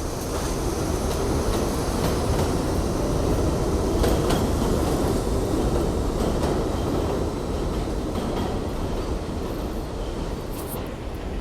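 New York City subway train running on the elevated Jamaica Line, a steady rumble with wheels clicking over the rail joints. It grows louder to a peak about four seconds in, then gradually eases off.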